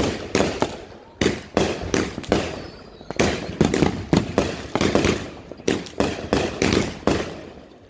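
Aerial fireworks bursting overhead in a rapid string of sharp bangs, two to three a second, each dying away before the next.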